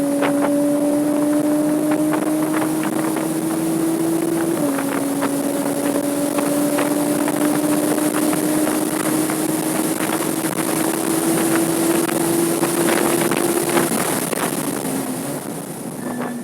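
Porsche 987.2 Cayman S's 3.4-litre flat-six heard onboard under hard acceleration on track. The revs climb, drop with an upshift about four and a half seconds in, then climb steadily in a long pull before falling away near the end as the throttle lifts. Wind noise and short clicks run through it.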